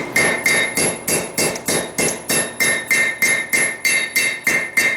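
Blacksmith's hand hammer striking hot steel on an anvil in an even rhythm, about four blows a second, each blow with a bright metallic ring, as a small piece is forged into a curve.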